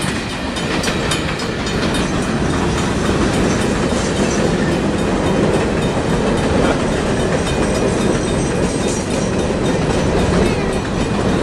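Long freight train rolling past, its cars' wheels clattering steadily over the rail joints.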